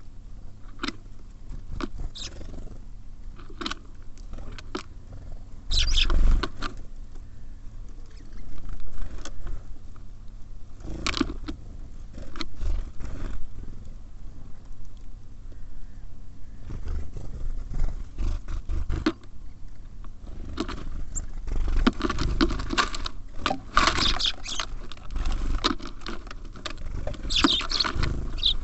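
Small birds busy on a close-miked feeder: irregular taps and pecks of beaks and claws on the feeder, with scratchy rustling that swells in several louder bouts.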